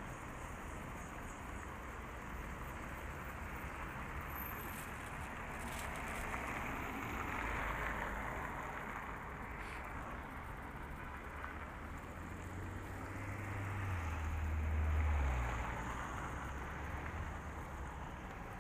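Steady outdoor rushing noise that swells twice, with a low rumble building and fading near the end.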